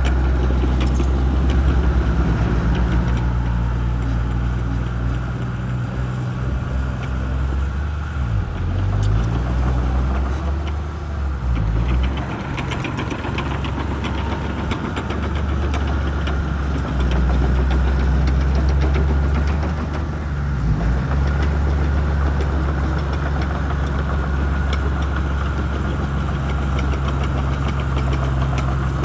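Shantui bulldozer's diesel engine running steadily, its pitch dipping and recovering about a third of the way in and again about two-thirds of the way through.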